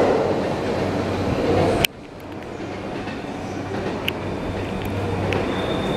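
Yamanote Line E235-series electric train running into the station platform: a steady rumble of wheels and motors. About two seconds in it breaks off with a click and a sharp drop in loudness, then builds again. A thin high squeal starts near the end.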